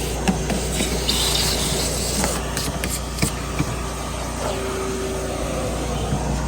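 Scratchy rubbing and hissing as dog hair is worked out of truck carpet with a pet-hair stone and vacuum, over a steady low hum, with a few light clicks.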